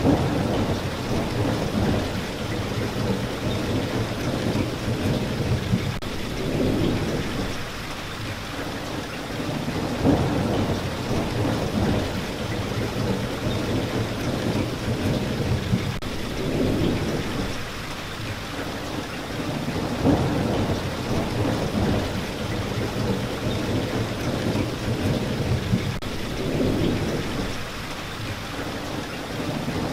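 Steady rain with low rolling thunder that swells and fades every few seconds.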